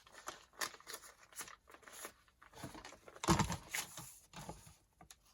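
Sheets of paper being handled and shuffled, a series of short crisp rustles with a louder burst of handling noise about three seconds in.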